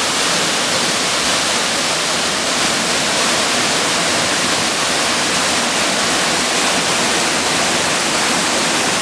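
A waterfall plunging into a deep pool at close range: a loud, steady, even rush of falling water.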